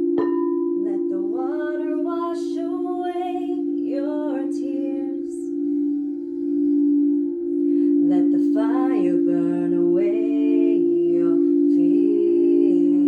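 Singing bowls ringing with a steady, sustained low hum, and a sharp strike right at the start. A voice sings a wordless, gliding melody over the hum twice, in the first half and again near the end.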